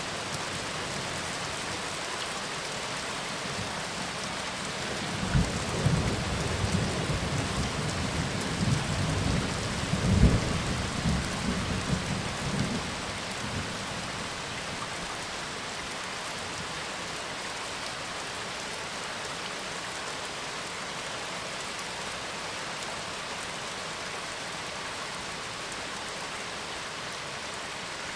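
Steady rain falling, with a roll of thunder rumbling from about five seconds in to about thirteen seconds, loudest around ten seconds.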